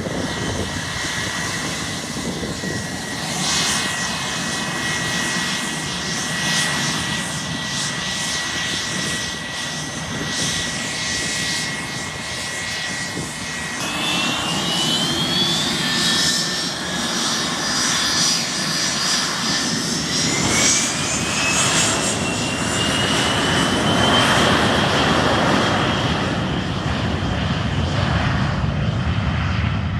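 Business jet turbofan engines spooling up for takeoff: a steady high whine over engine roar, then the whine climbs in two steps, about halfway through and again a few seconds later, as the roar builds to takeoff thrust.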